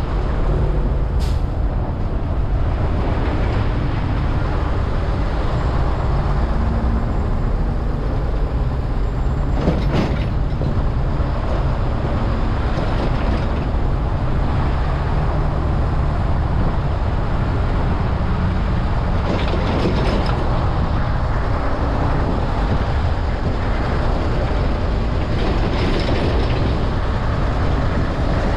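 Steady, loud rumble of road traffic and tyre noise, heaviest in the low end, with a couple of short faint clicks or knocks.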